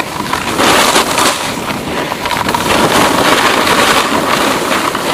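Loud, steady rushing noise of wind on the microphone.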